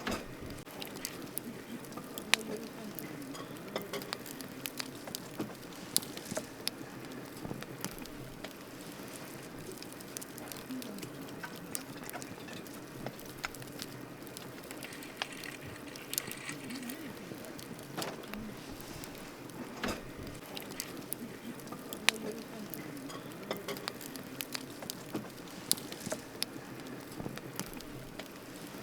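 Wood campfire burning, crackling steadily with frequent sharp pops and snaps at irregular moments, a few of them much louder than the rest.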